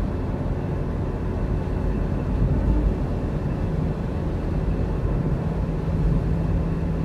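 Car in motion: steady low engine and road rumble.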